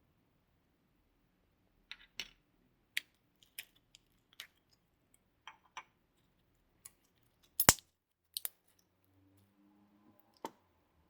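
Slime being worked by hand, giving irregular sticky pops and clicks, the loudest a quick double pop about two-thirds of the way in.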